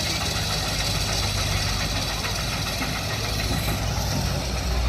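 Steady engine and road noise of a car heard from inside the cabin, a low hum under an even hiss.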